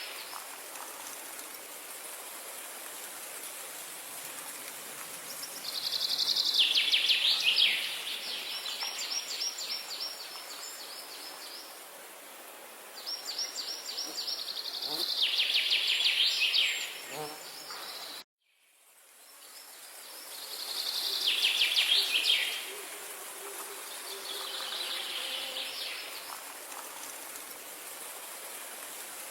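A songbird singing four times, each song a rapid trill of quick repeated notes lasting about two seconds, over a steady background hiss. The sound cuts out abruptly about 18 seconds in and fades back up.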